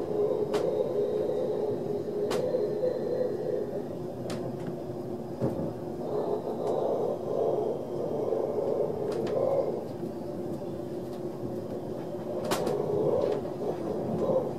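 ÖBB Railjet passenger coach running along the track, heard from inside the coach: a steady rumble of wheels on rail with a faint hum, and sharp clicks now and then.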